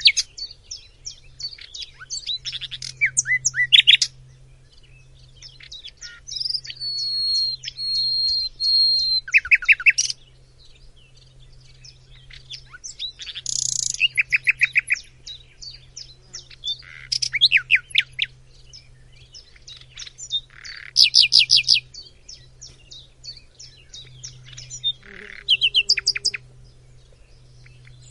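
A hwamei (Vietnamese họa mi) singing a loud, varied song. Phrases of fast trills and rapidly repeated notes alternate with a long held whistle and come every few seconds with short pauses between them, over a faint steady low hum.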